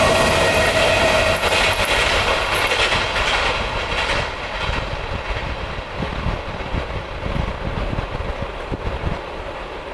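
Wheels of a train of passenger coaches clattering over the rail joints as the last coach rolls past and the train draws away, the sound fading steadily. A steady whine is heard in the first second and a half.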